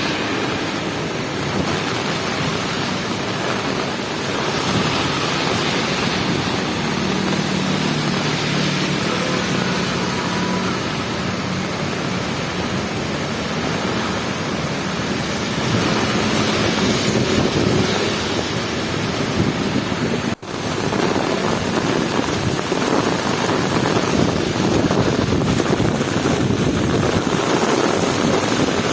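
Heavy rain pouring down in a dense, steady hiss. It cuts out for an instant about twenty seconds in.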